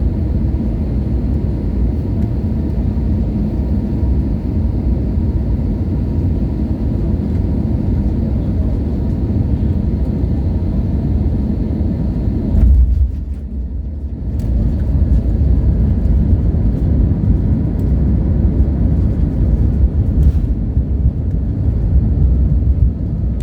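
Steady low rumble of an Airbus A320-200 heard from inside the passenger cabin during landing, with a faint steady tone above it. A single heavy thump comes about 13 seconds in, after which the sound goes briefly muffled before the rumble returns.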